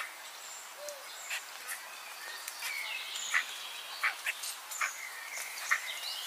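Short, high bird chirps and clicks, a few each second, over a faint steady hiss.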